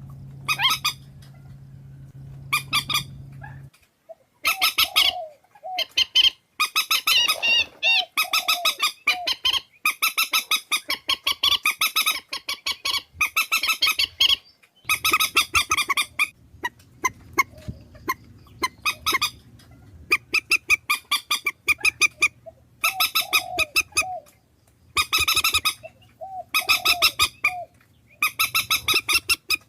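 Swamphen calls played as a trapping lure: bouts of rapid, nasal honking notes, repeated with short pauses. A low steady hum lies under the first few seconds.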